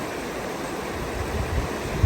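Steady rush of a flowing river. Low wind rumble buffets the microphone in the second half.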